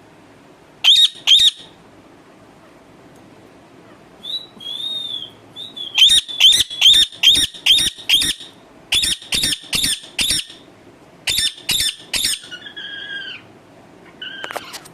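Pet parakeet screeching: two sharp shrill calls about a second in, then quick runs of repeated harsh calls, about two to three a second, ending in a few lower, drawn-out calls.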